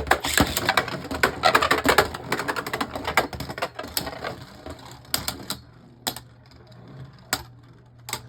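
Two spinning Beyblade Burst tops, Dullahan and Sword Valtryek, clattering against each other and the stadium in a fast run of clicks. After about five seconds the clicking thins to a few separate knocks as the battle winds down towards a survivor finish.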